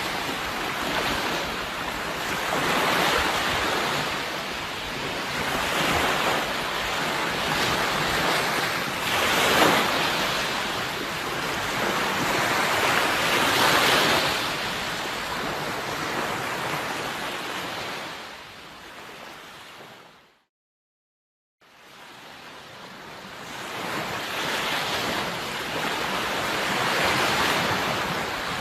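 Sea waves washing onto a shore, swelling and receding every few seconds. The sound fades away to a brief total cut-out about two-thirds of the way through, then fades back in.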